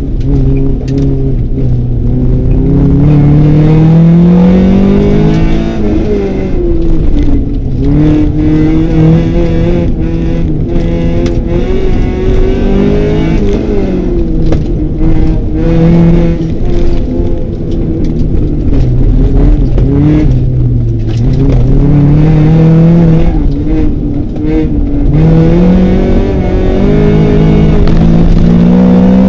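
Honda CRX's B16 four-cylinder DOHC VTEC engine heard from inside the cabin under hard acceleration, its pitch climbing for several seconds, then dropping sharply at each gear change or lift, over and over.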